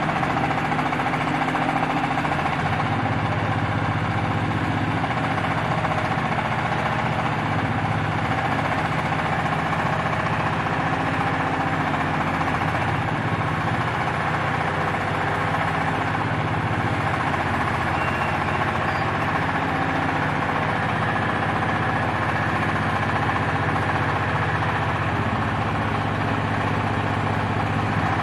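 Diesel engine of a hydraulic scrap baler running steadily, with a dense, knocking engine note that shifts slightly in pitch now and then as the load changes.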